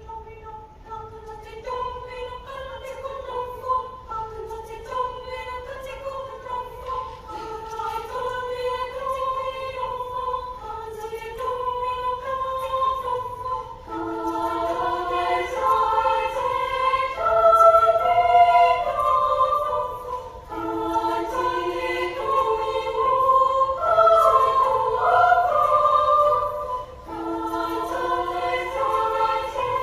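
Children's choir singing, opening on a single melodic line and breaking into several-part harmony about halfway in, growing louder.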